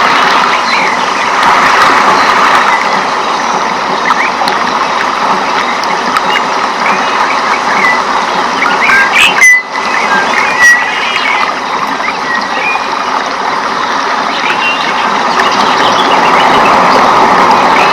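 Rainforest ambience: a dense, steady chorus of calling animals with short bird chirps scattered through it. The sound cuts out for a moment a little past halfway.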